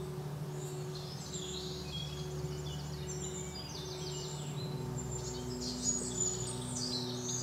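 Small birds chirping and trilling in quick, high notes, over a steady low hum.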